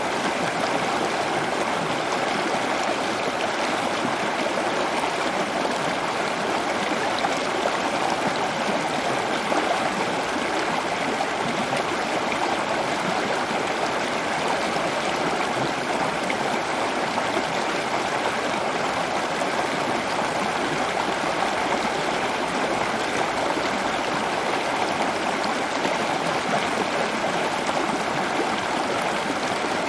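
Steady rushing of running water, like a stream, an even noise that does not change.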